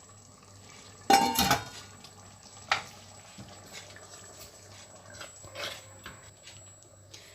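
Metal cookware clanks once about a second in, with a short ringing, then a sharp click near three seconds and a few faint kitchen knocks.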